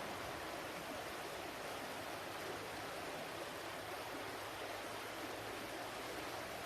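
Flowing water: a steady, even rushing with no breaks or separate splashes.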